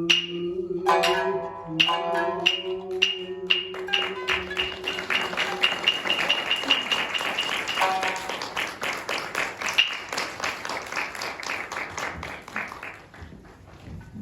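Shinnai-bushi music: a jōruri singer holds a long final note while two shamisen, the main one and the upper-tuned uwajōshi, pluck sharp notes with their bright buzz. Once the voice stops, about six seconds in, the shamisen play a rapid, dense closing run that fades near the end.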